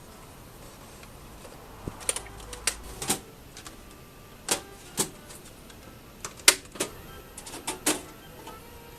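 Irregular sharp clicks and clacks, about a dozen, from small hard parts of a Sony Betamax deck being handled and fitted during repair.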